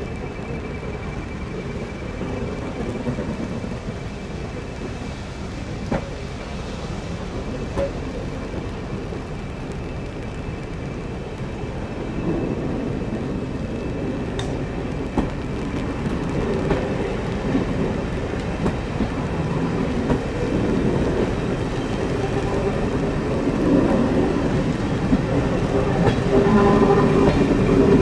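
Passenger coaches of a train rolling slowly past, with a few sharp clicks from the wheels over the rail joints. The Class 31 diesel locomotive's English Electric engine, at the far end of the train, grows louder as it draws near.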